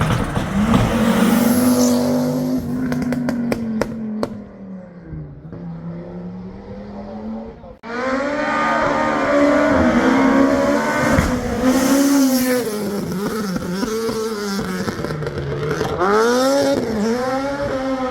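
Historic rally car engines revving hard through the gears, pitch rising and falling as they are driven on the stage, with a burst of sharp clicks a few seconds in. The sound changes abruptly partway through to a second car's engine revving.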